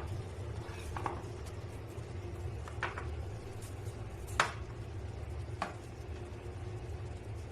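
A utensil knocking and clinking against a cooking pot four times, the loudest about four and a half seconds in, over a steady low hum.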